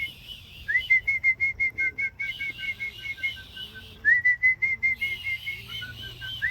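A pigeon fancier's call whistle, rapid short notes at about five a second in two runs, each run opening with an upward slide. It is the whistle used to call young racing pigeons down and into the loft.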